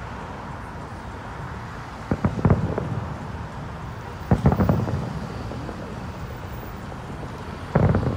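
Distant aerial fireworks shells bursting in three clusters of bangs, about two, four and a half, and eight seconds in, each trailing off in a low rolling rumble.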